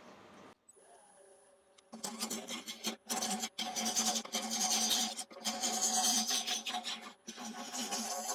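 A power tool working a piece of ash, with a steady motor hum under a rasping cutting noise. It comes in after about two seconds and is broken by a few brief gaps.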